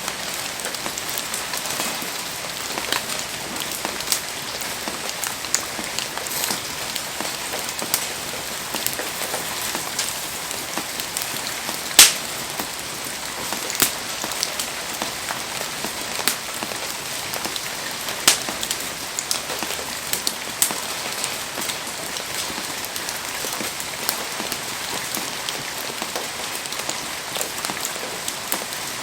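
Heavy rain falling with a steady hiss, with sharp cracks and pops scattered through it. One pop about twelve seconds in is much louder than the rest.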